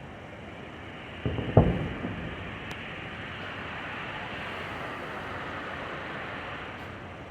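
Aerial fireworks: two shell bursts go off about a second and a half in, the second a loud boom that echoes briefly. A steady hiss follows for several seconds.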